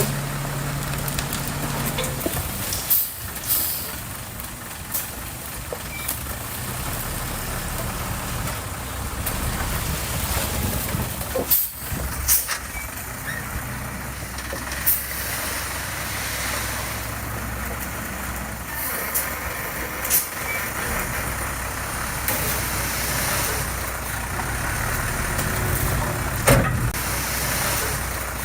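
Diesel engine of heavy construction machinery running steadily, with several short sharp clanks or hisses scattered through it.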